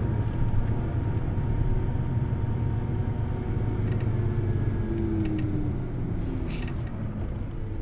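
Hino Blue Ribbon City Hybrid bus heard from inside while under way: its engine drones steadily, then eases off in the second half. A fainter whine rises in pitch about halfway through.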